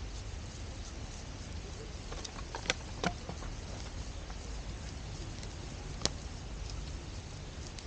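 Campfire burning in a fire stand: a steady low hiss with a few sharp crackling pops, two close together about three seconds in and another about six seconds in.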